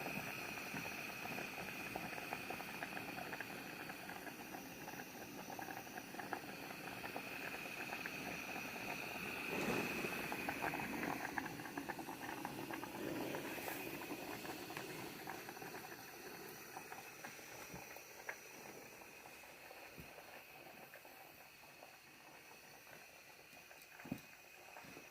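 Food cooking on a camp stove or fire, sizzling and bubbling, swelling about ten seconds in and then slowly fading. A thin steady high tone runs underneath, with a few soft knocks near the end.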